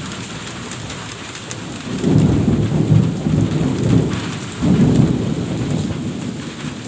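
Steady heavy rainfall with thunder rumbling in two deep swells from about two seconds in, fading out before the end.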